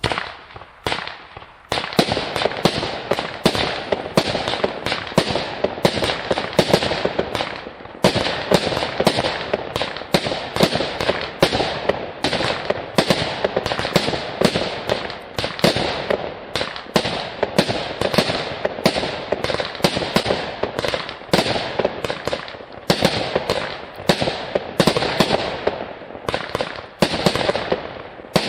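A 200-shot consumer fireworks cake firing in a continuous barrage: rapid sharp launches and bursts, several a second, sparse at first and thickening into a dense run a couple of seconds in.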